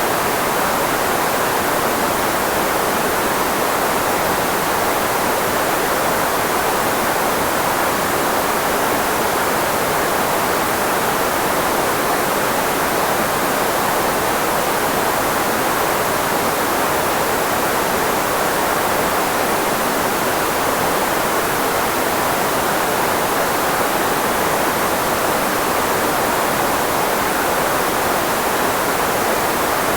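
Steady filtered white noise, shaped as a speech blocker to mask the frequencies of the human voice: an even, unchanging hiss, strongest in the middle range.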